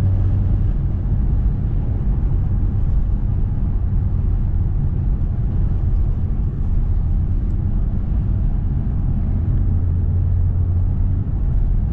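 A car driving along, heard from inside the cabin: a steady low drone of engine and road noise.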